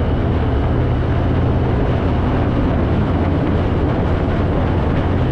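Steady, loud low rumble of a running vehicle engine, with no change in pitch or speed.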